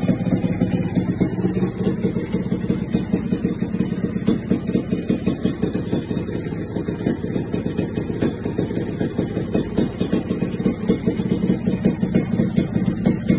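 Suzuki Satria single-cylinder two-stroke motorcycle engine running steadily through an aftermarket BRAT expansion-chamber exhaust, with a rapid, even run of exhaust pulses.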